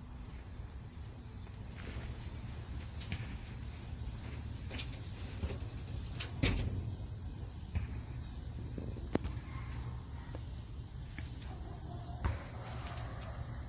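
Outdoor ambience of a steady high-pitched insect drone over a low rumble, broken by a few sharp clicks, the loudest about six and a half seconds in.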